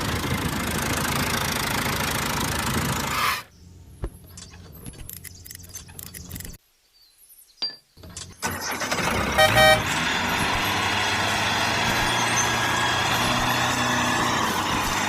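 Mini tractor running, a steady motor noise. It breaks off for a few seconds of scattered clicks and near silence, then returns. About two thirds of the way in there is a short, loud horn-like beep.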